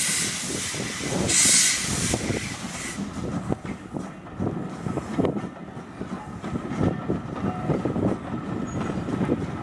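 Ivatt Class 2MT 2-6-2T steam tank engine No. 41313 with its passenger train: loud bursts of steam hiss about every second and a half for the first three seconds, then the carriages' wheels rumbling and clattering over the rail joints.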